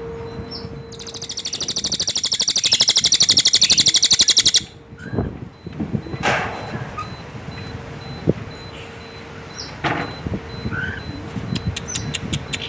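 Cililin bird calling: short chirps and quick upward whistled notes, with a brief run of fast ticking notes near the end. The loudest sound is a rapid rattling trill early on that swells over about three and a half seconds and then cuts off suddenly.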